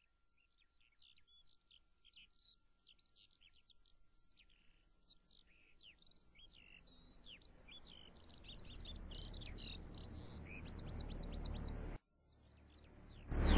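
Small birds chirping and twittering in quick short calls, quiet. A low rumble builds up under them through the second half, breaks off about a second and a half before the end, and a much louder sound starts right at the end.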